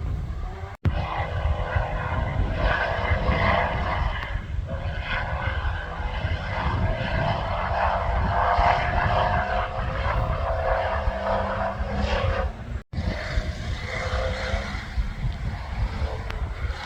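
Off-road competition safari vehicle's engine running hard under heavy low rumble and buffeting, with the sound cutting out for an instant twice.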